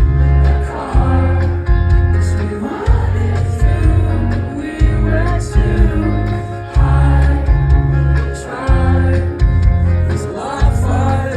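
Live band music with a singer, loud and bass-heavy, the bass pulsing in bursts under the vocals.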